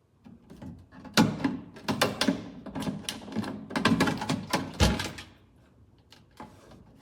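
A quick clatter of hard knocks and clicks, like objects being handled and set down, packed from about one to five seconds in, then a few scattered taps.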